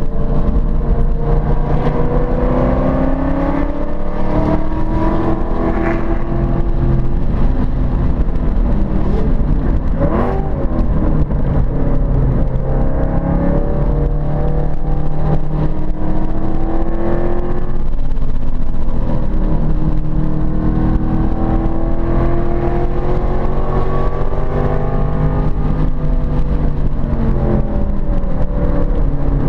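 Ford Mustang Boss 302's V8 engine running hard on track, its pitch repeatedly climbing under acceleration and falling as the throttle comes off.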